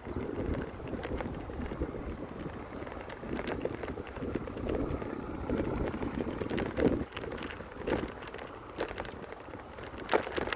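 Wind rushing over the microphone on a moving bicycle, with scattered short clicks and rattles from the bike.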